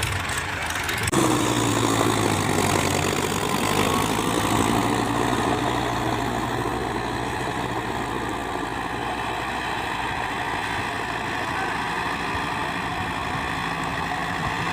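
Sonalika DI 55 tractor's diesel engine running. It suddenly gets louder about a second in, its pitch dipping and rising, then runs on steadily.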